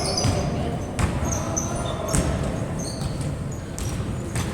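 Game sounds on a basketball court: a ball bouncing now and then and short high sneaker squeaks.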